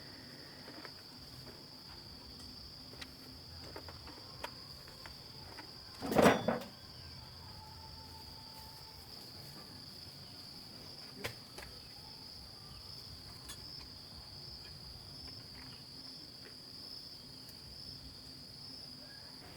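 Steady high-pitched drone of crickets or other insects, with a loud knock or clatter about six seconds in and a sharper click about eleven seconds in, plus a few faint taps.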